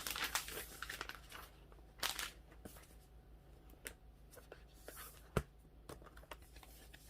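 Packaging being handled. Irregular rustling and crinkling come with scattered light clicks and taps, with one sharper click about five seconds in.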